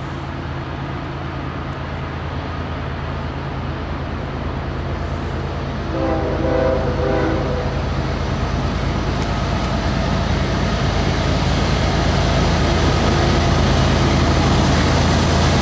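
GE ES40DC diesel-electric locomotive approaching, its engine a steady low drone that grows louder throughout; one horn blast about six seconds in, lasting about a second and a half.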